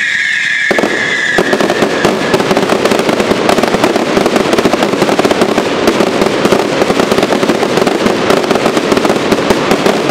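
Fireworks display: a high pyrotechnic whistle slides slightly down and fades out in the first two seconds. From under a second in, a dense, continuous crackle of crackling stars takes over and keeps going.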